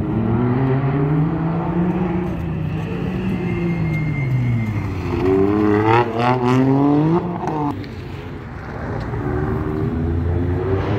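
Race car engines running and revving: one engine's pitch rises and falls slowly, then climbs hard with several quick rev peaks about six to seven seconds in, followed by a lower steady engine note near the end.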